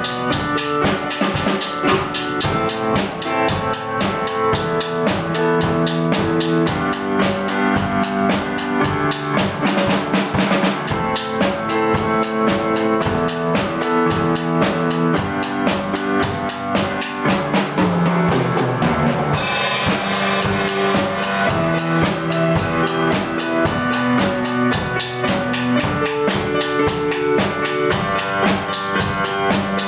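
Music played on a drum kit, with a steady run of drum hits over sustained pitched instrument notes; the sound shifts about two-thirds of the way through.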